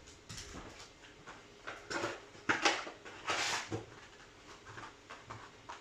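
Trading cards and foil booster-pack wrappers being handled: a few short rustles and slides, the longest about three and a half seconds in.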